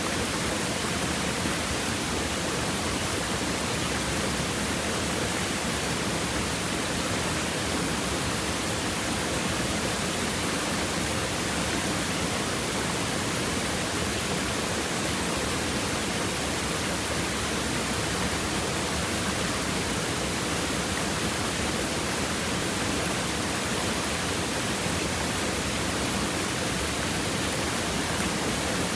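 River water babbling over stones, an even, steady rushing that does not change.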